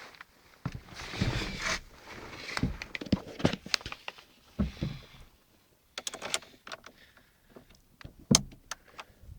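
Scattered clicks, knocks and rustling from handling a car: a door, its fittings and controls being worked. The sharpest knock comes about eight seconds in, and no engine is heard running.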